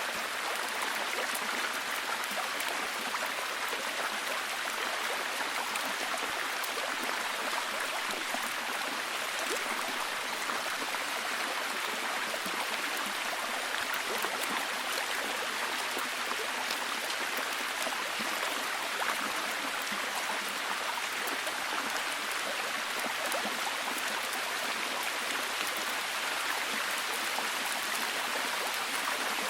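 Steady heavy rain: a dense, even hiss of many fine drops, with little low rumble.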